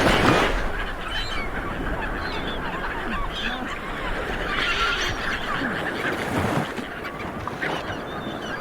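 A dense chorus of many seabirds calling at once, short overlapping honking calls in a constant clamour, with a steady low rumble underneath.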